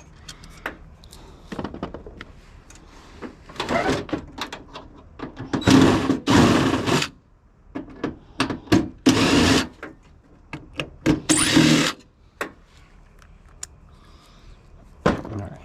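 A power drill run in about five short bursts, each under a second, with sharp clicks of small metal parts in between: screws being backed out of a metal appliance shell.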